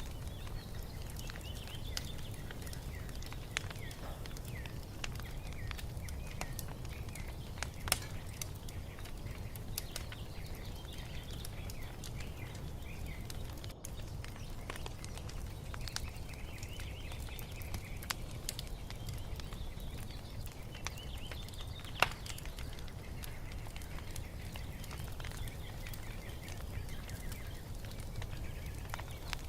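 Wood fire crackling, with scattered sharp pops (two louder ones about 8 and 22 seconds in) over a steady low rumble, while birds chirp in short, high calls.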